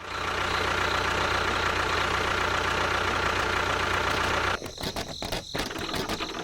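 A motor running steadily with a low hum. About four and a half seconds in, it changes to a rapid, irregular ticking chatter.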